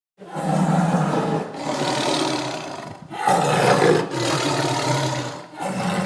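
A large animal giving a series of long, rasping calls, about five in a row with short breaks between them.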